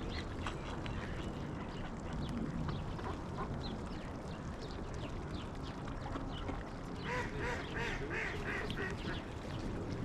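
Ducks quacking and calling: many short calls throughout, with a run of repeated stacked calls from about seven seconds in, over a steady low background noise.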